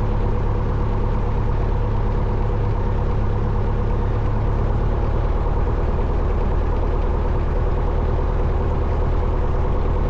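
Single-engine Cessna 172 Skyhawk's four-cylinder Lycoming piston engine and propeller running steadily at low taxi power, a constant low drone.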